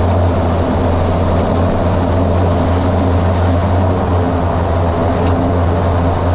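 Airliner cabin noise from a passenger seat: the steady drone of the jet engines and airflow, with a strong low hum underneath.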